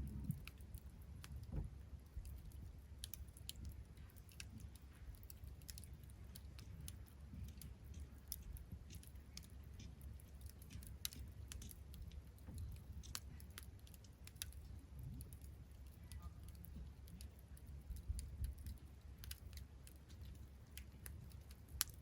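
Wood campfire crackling, with scattered sharp snaps and pops at irregular intervals over a faint low rumble.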